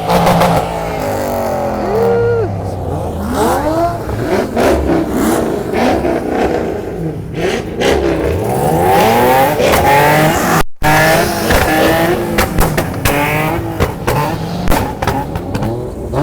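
Car engines revving hard again and again, their pitch sweeping up and down with barking exhausts, several engines overlapping. There is a brief break about two-thirds of the way through.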